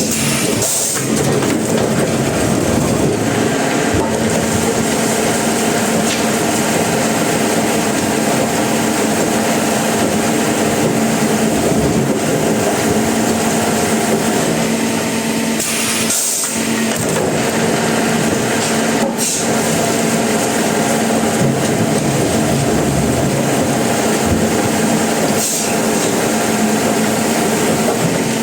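Sawmill machinery running with a loud, steady drone, dipping briefly a few times.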